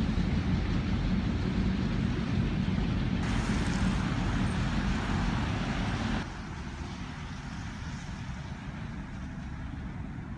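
Passing vehicle traffic: a steady low rumble with a hiss rising over it about three seconds in. Both drop away abruptly about six seconds in, leaving a quieter rumble.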